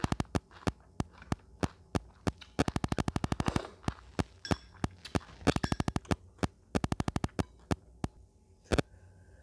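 Close-miked eating: a string of sharp, crisp clicks and crunches, some in quick runs of about ten a second, others spaced a few a second apart.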